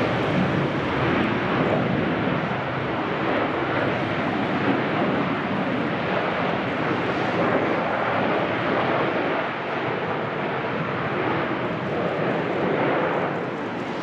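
Jet airliner engines running with a steady, dense rushing noise that holds at an even level.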